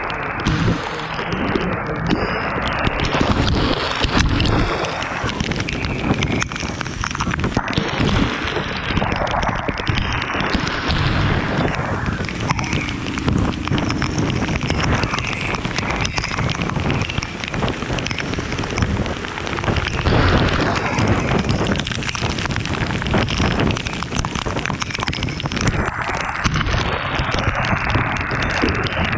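Wind buffeting the microphone of a motorcycle under way in the rain, a loud rushing noise that surges and eases, mixed with rain and road noise.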